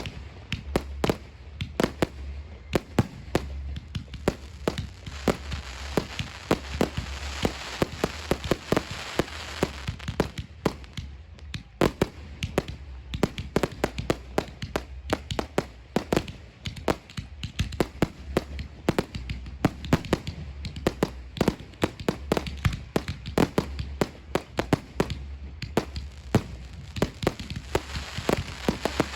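Fireworks display: a dense run of shell bursts, several bangs a second throughout, with a thicker hissing crackle between about six and ten seconds in.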